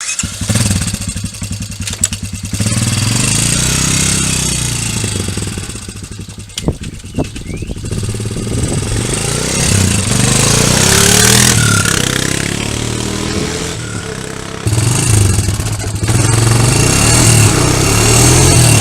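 Honda Fourtrax TRX250 quad bike's engine running, its revs and loudness rising and falling, with a few sharp clicks and a sudden jump in loudness about fifteen seconds in.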